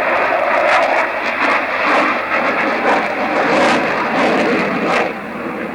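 Dassault Rafale B01 two-seat fighter's twin Snecma M88-2 turbofans during a flying display: loud, uneven jet noise that drops away sharply about five seconds in.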